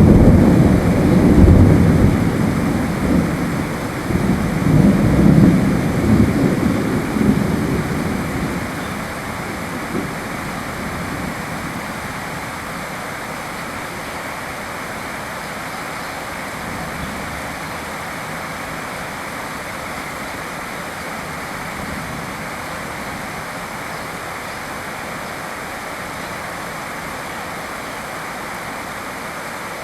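Steady rain with a roll of thunder that rumbles and fades over roughly the first eight seconds, leaving an even rain hiss.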